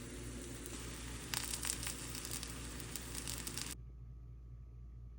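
Rustling, crackling noise over a steady background hiss, which cuts off suddenly about three-quarters of the way through. A faint low hum remains.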